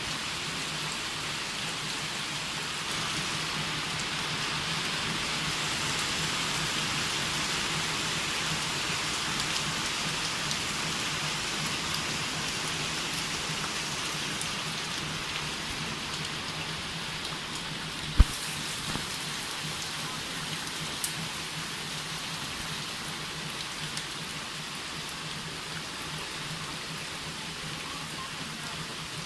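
Steady rain falling, an even hiss throughout, over a faint low hum, with one sharp knock about eighteen seconds in.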